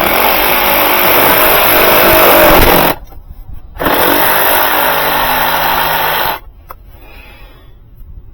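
A power tool run in two bursts, about three seconds and then about two and a half seconds, each cutting off sharply.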